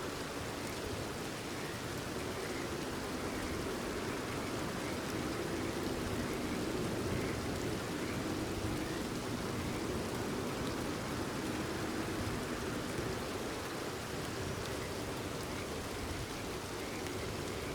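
Steady, even rainfall with no letup, and faint short frog calls every few seconds.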